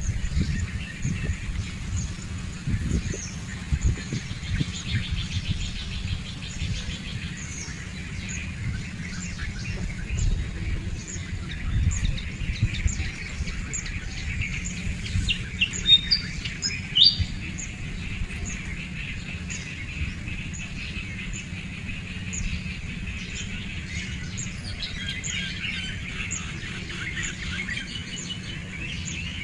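Small birds chirping repeatedly, short high notes with a few louder ones around the middle, over a steady low rumble.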